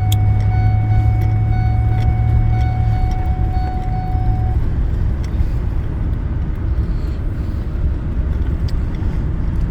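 Vehicle running and driving: a steady low engine and road rumble. A thin steady tone rides on top until about four and a half seconds in, then stops.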